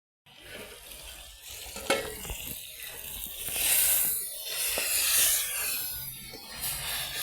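Food sizzling in a hot pan, the hiss swelling twice, with a few sharp clicks of a utensil against the pan.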